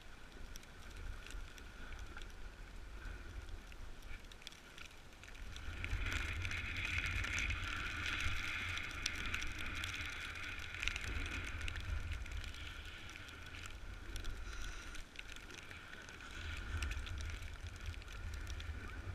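Snowboard sliding and scraping over snow, a steady hiss, with wind buffeting the microphone as a low rumble; both grow louder about six seconds in.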